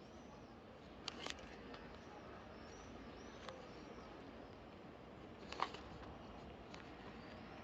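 A few faint, scattered clicks and taps of tools or parts being handled, the loudest a little past halfway, over a low steady hiss, with short bird chirps faint in the background.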